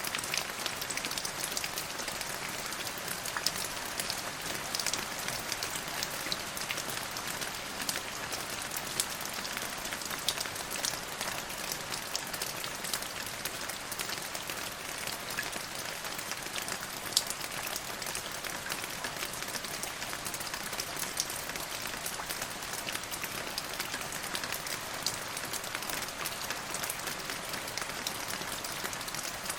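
Steady rain falling on a surface: an even hiss of rainfall with many small individual drop ticks scattered through it.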